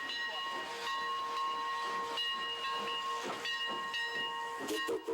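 Steam locomotive whistle blowing a long chord of several steady tones over hissing steam.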